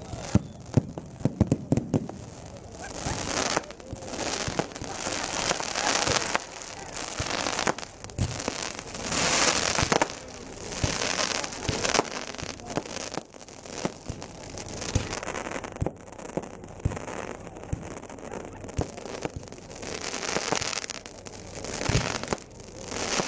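A fireworks display: sharp bangs of shells bursting, many in quick succession, between swells of crackle lasting a second or so.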